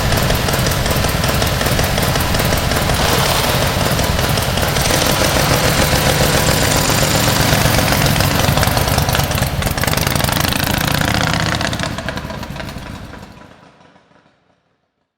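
1931 Matchless X/3's 982 cc 50-degree V-twin engine running steadily, the sound fading away to silence near the end.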